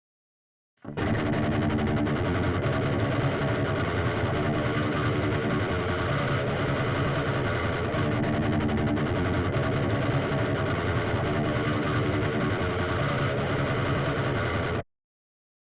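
Seven-string electric guitar with a Seymour Duncan Nazgul pickup, played through a Stomp Machines Prometheus high-gain distortion pedal (a Revv G3-style circuit) and an impulse-response cabinet. It plays a heavily distorted metal riff that repeats, starting about a second in and cutting off abruptly near the end.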